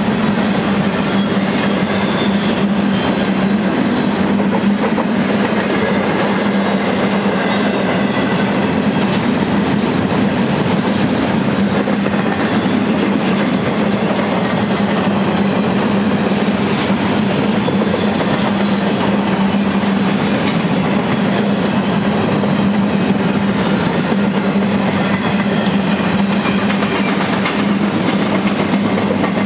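Freight train of empty intermodal well cars rolling past: steel wheels on rail making a steady, loud rolling rumble and rattle, with a steady low hum underneath.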